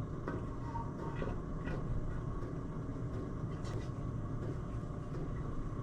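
Steady low background hum with a few faint, light knocks as aluminium engine crankcase halves are handled and lowered onto their location dowels, not yet lining up.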